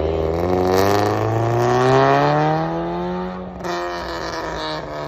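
Car engine accelerating, its pitch rising steadily for about three and a half seconds, then dipping as it shifts up and pulling again.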